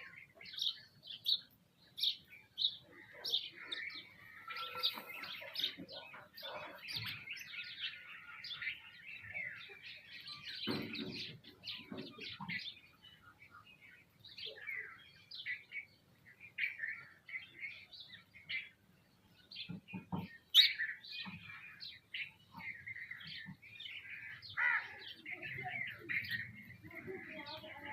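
A flock of small birds, sparrows and mynas among them, chirping and calling together in many short overlapping calls, with one sharper, louder call about two-thirds of the way through.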